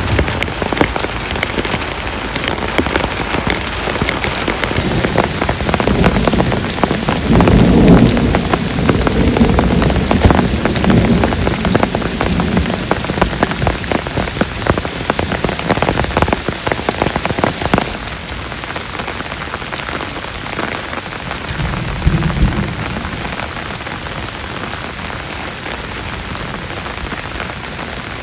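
Heavy rain beating on a surface, dense with individual drop hits. Low rumbles of thunder swell up about a quarter of the way in and again about three-quarters through. The rain turns a little quieter about two-thirds of the way through.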